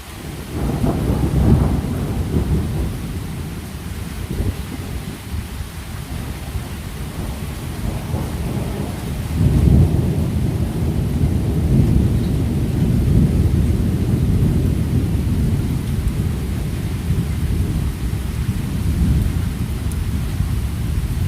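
Thunder rumbling in two long rolls. The first starts about half a second in, is loudest over the next couple of seconds and slowly fades; a second, heavier roll begins about nine and a half seconds in and keeps rumbling.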